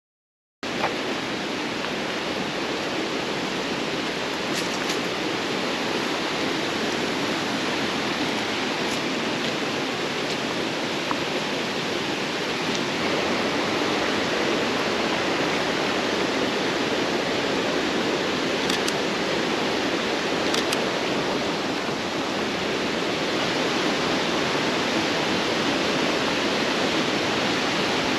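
Waterfall rushing, a steady heavy roar of falling water that cuts in just under a second in.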